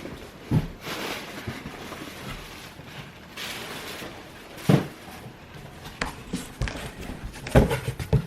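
Cardboard box being worked out of a larger cardboard shipping box: cardboard scraping and rustling, with a few thumps, the loudest nearly five seconds in and another near the end.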